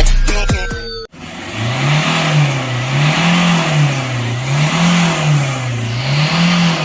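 Electronic music for about the first second, then an engine running whose pitch rises and falls evenly, about once every second and a half, like repeated revving.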